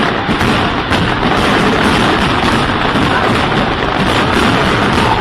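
New Year's fireworks going off in a dense, continuous barrage, countless bangs and crackles merging into a steady loud din.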